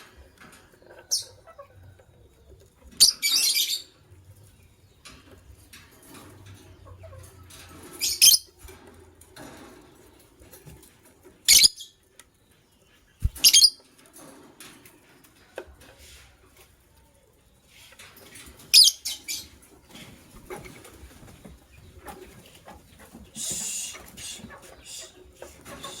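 Pair of white lovebirds giving short, sharp, high-pitched chirps a few seconds apart, over a faint quiet background.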